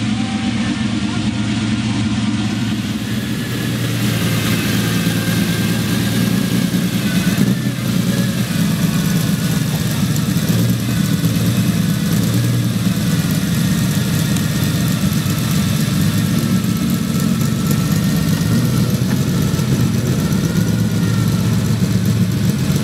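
A car engine running continuously at fairly steady revs, its pitch wavering slightly up and down.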